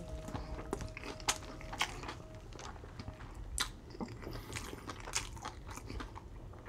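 A person chewing a mouthful of Burger King triple Whopper with cheese and bacon, with scattered wet mouth clicks and smacks.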